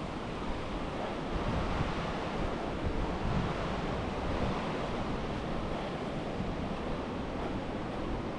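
Steady rushing of a river's flowing water, an even noise with no breaks.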